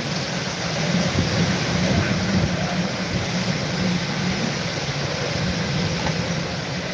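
Hurricane wind blowing steadily, a continuous rushing noise with low rumble from the wind on the microphone.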